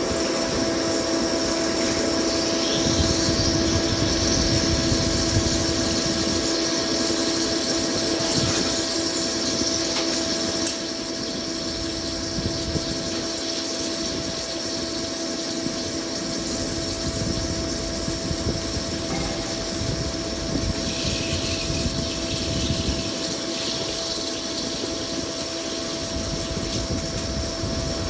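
CNC lathe running during a turning job, a steady machine hum with a high whine. It drops a little in level about eleven seconds in.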